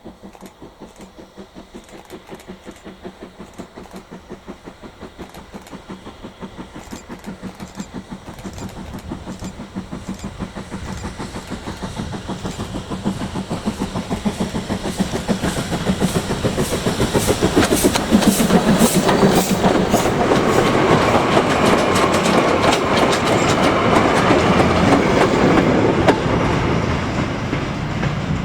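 Steam train approaching with a fast, even beat that grows steadily louder, is loudest for several seconds and eases off near the end as it passes.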